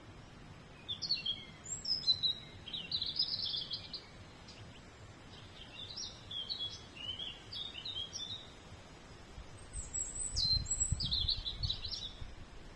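A songbird singing three phrases of quick, varied chirps and short whistled notes, each a few seconds long, with pauses between them. A low rumble comes in under the last phrase.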